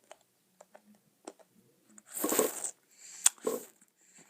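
Mouth sounds of a chunk of Bazooka chew bar being worked and chewed: scattered soft clicks and two short, noisy bursts, the louder about two seconds in.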